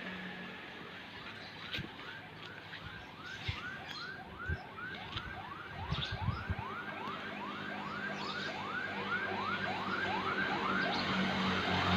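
A vehicle siren sounding in quick rising whoops, about two or three a second, growing louder toward the end, over a low steady hum, with a few short knocks in the middle.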